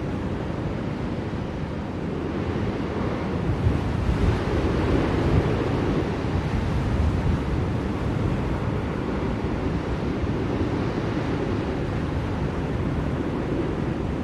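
Blizzard wind blowing as a steady, deep rush, with a stronger gust swelling about four seconds in and easing after about seven.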